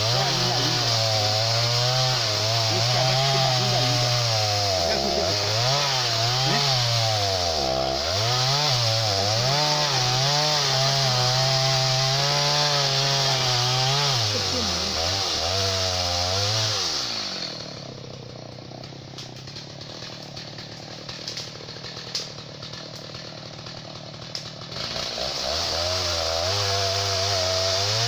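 Two-stroke chainsaw cutting into a dry tree, its engine pitch dipping and recovering as the chain bites. About two-thirds of the way through it drops to a low idle with a few light knocks, then revs up again near the end.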